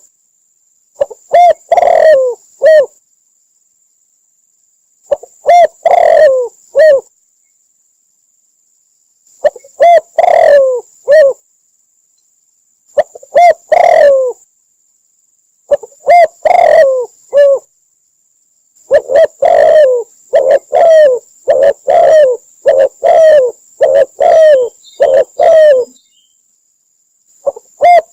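Spotted dove cooing: short phrases of a few coos every three to four seconds, then a longer run of about a dozen coos later on. It is a recorded lure call, with dead silence between phrases.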